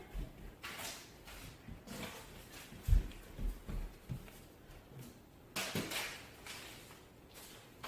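Light knocks and thuds of paper airplanes being thrown at and handled around a basket, with a brief rustle about two-thirds of the way through.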